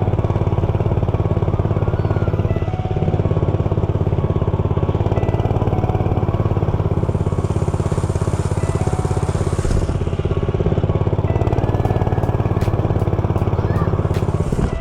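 Dirt bike engine running at a fairly steady speed, close to the microphone, with a rapid, even firing beat. A hiss rises for a few seconds in the middle.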